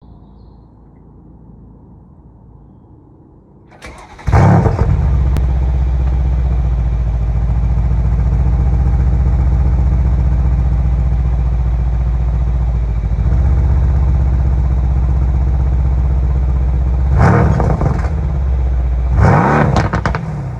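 Mercedes-AMG C63 S engine through its stock exhaust: it cranks about four seconds in and catches with a loud flare, then settles to a steady idle. Near the end come two short throttle blips, the revs rising and falling each time.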